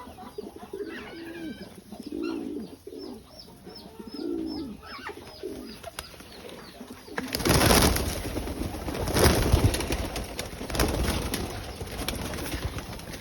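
Pigeons cooing, with a quick series of short high chirps over them. About seven seconds in, loud surges of rushing noise take over and drown out the birds.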